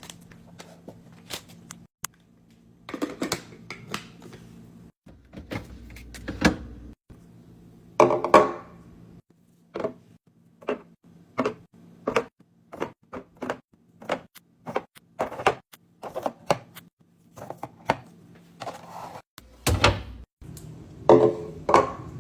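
Containers and packages being handled and set down one after another while restocking: a string of clicks, taps and knocks, with louder thunks about a third of the way in and near the end.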